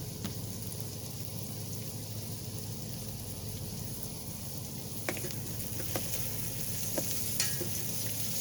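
Squash sizzling in olive oil in an Instant Pot's inner pot as it is stirred. About five seconds in, a few sharp clicks of a utensil against the pot join the steady sizzle.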